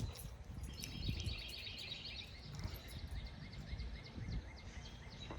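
Outdoor birdsong: a rapid run of high chirps starting about a second in and fading past the middle, with scattered short chirps after, over a steady low rumble.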